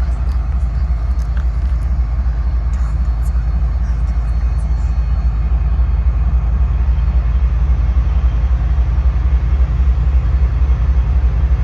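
TEP33A diesel locomotive's engine, a GE GEVO-16 V16, giving a steady deep rumble that grows slightly louder toward the end as the locomotive pulls its train out.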